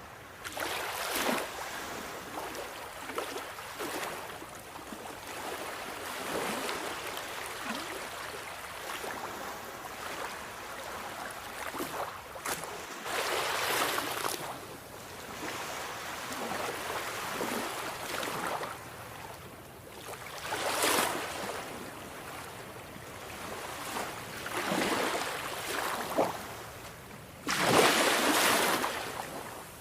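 Sea waves breaking and washing up the shore, surging and ebbing every few seconds, with the loudest surge near the end.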